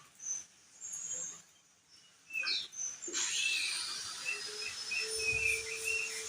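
Opior jambul (crested dark-eye) singing: a few short chirps and down-slurred notes, then from about three seconds in a quick, unbroken run of chattering notes. A steady low hum joins near the middle.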